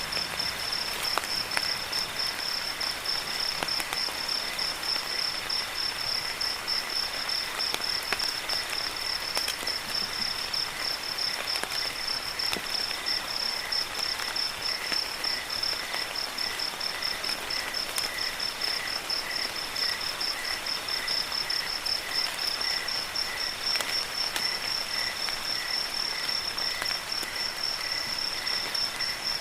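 Crickets chirping in a rapid, even, high-pitched pulse without a break, with a fainter, lower-pitched pulsing call alongside, over a steady hiss of rain with scattered dripping ticks.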